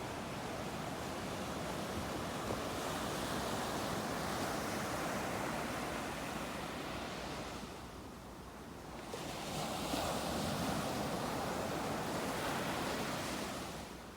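Sea waves washing in on the shore: a long surge of surf, a short lull about eight seconds in, then a second surge that fades near the end.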